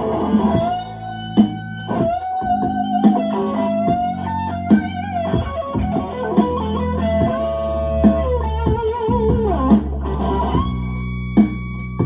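Blues-style electric guitar playing sustained, bending lead notes over bass and a steady drum beat.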